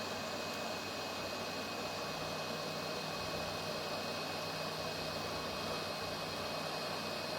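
Hot air rework station blowing a steady hiss of air, with a faint steady high whine.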